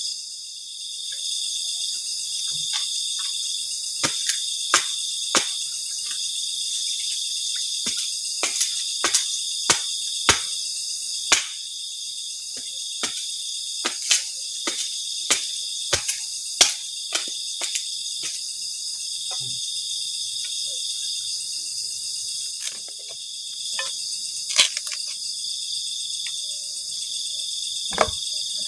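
Steady chorus of crickets and other night insects, a high continuous trill. Over it come irregular sharp snaps or clicks, a couple of dozen in all, thickest in the middle stretch.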